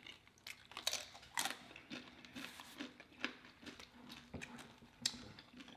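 Tortilla chips being bitten and chewed, a scatter of soft irregular crunches and clicks.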